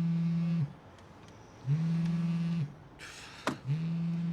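Mobile phone vibrating: a low, steady buzz in three pulses of about a second each, roughly two seconds apart. Between the second and third pulses there is a short rustle and a sharp click.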